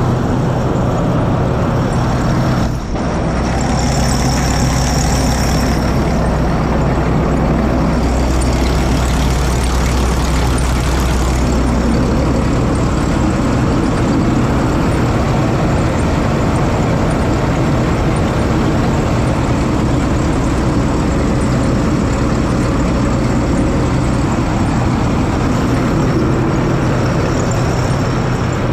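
Combine's diesel engine running steadily while warming up before work, a deep hum under a constant mechanical drone; the low hum eases about 13 seconds in.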